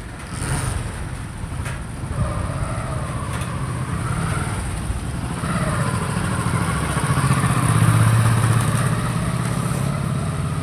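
A motor vehicle engine running past, with a wavering whine over a low rumble, growing louder to a peak about eight seconds in and then easing off.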